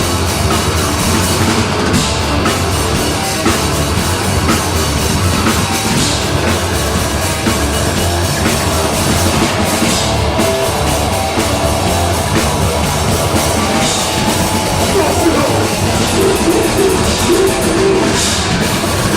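Live deathgrind band playing at full tilt: distorted guitars, bass and rapid drumming in a dense, unbroken wall of sound.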